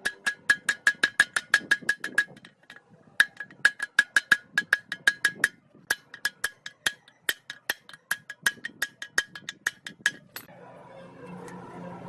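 Rapid metal-on-metal hammer taps, about six ringing strikes a second, in three runs with brief pauses, stopping about ten seconds in.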